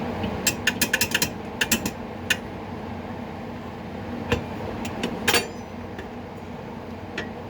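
Metal tools and parts clicking and clinking as the mower's PTO clutch is worked on by hand: a quick run of sharp clicks in the first two seconds, scattered single clicks, and a louder ringing clink a little past five seconds, over a steady low hum.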